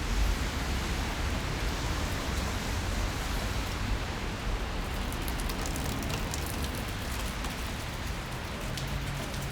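Steady rain falling on a city street, with a low rumble underneath. From about halfway through, close raindrops add sharp ticks on top.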